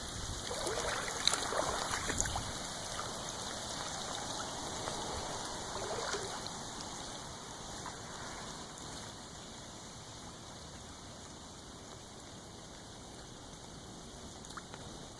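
Water running and trickling in a flooded drainage ditch, with splashy patches in the first few seconds. It settles to a quieter, steady flow after about eight seconds.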